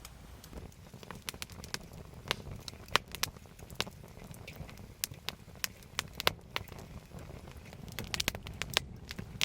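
Wood campfire crackling, with irregular sharp pops scattered a few to the second.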